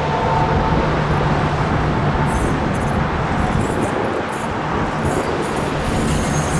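Jet airliner's engines close by at the end of the runway: a loud, steady noise with a faint whine over the first two seconds.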